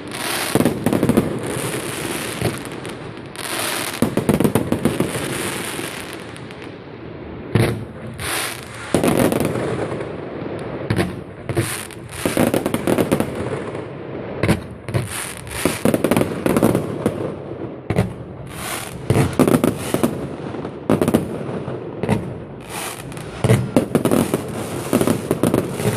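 Fireworks display: aerial shells bursting in a long, irregular series of bangs, some in quick clusters, with stretches of high crackling between them.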